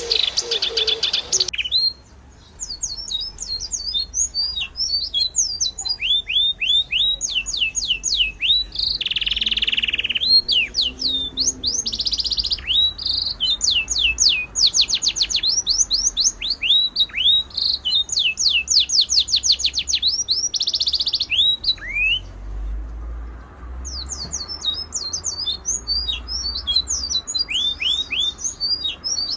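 Small birds chirping continuously: many short, high chirps that fall in pitch, mixed with fast rattling trills, with a brief pause about two seconds in.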